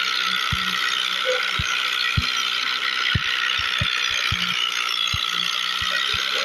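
Steady mechanical rattling, with about ten dull knocks at irregular intervals.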